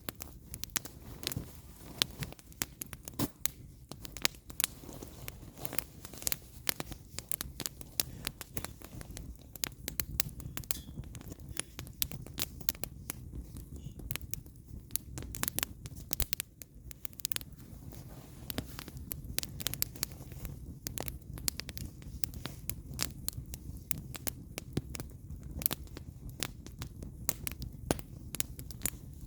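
Firewood burning in an open fire, crackling with many irregular sharp pops and snaps over a low steady rumble.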